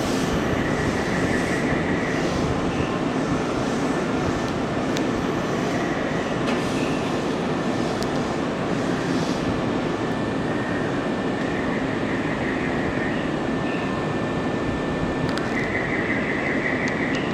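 Nankai Railway electric train moving through the station: a steady rumble of steel wheels on the rails with scattered clicks and a few short high squeals.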